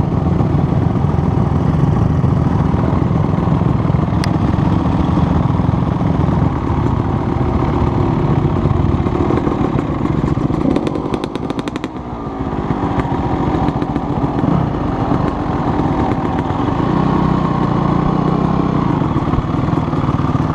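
Dirt bike engine running steadily. It eases off briefly about twelve seconds in, with a quick run of clicks, then picks up again.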